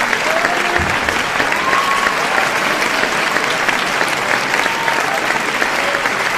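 A large audience clapping steadily, a dense, even mass of handclaps, with a few faint shouts and whoops mixed in.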